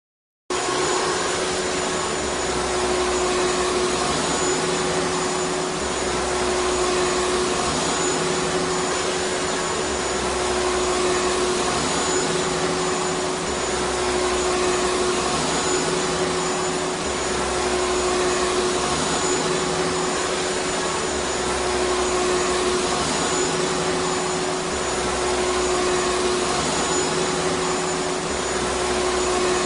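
Vacuum cleaner running steadily: an even rushing noise with a constant motor hum. It starts about half a second in.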